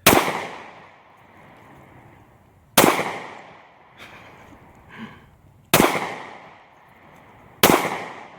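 Four handgun shots at uneven intervals, each a sharp crack followed by a rolling echo that dies away over about a second.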